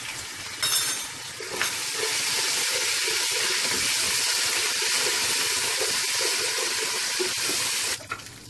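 Ginger-garlic paste sizzling as it fries in hot oil with golden-browned sliced onions, stirred with a wooden spoon. There is a brief knock under a second in. The sizzle swells about a second and a half in, holds steady, and drops away suddenly near the end.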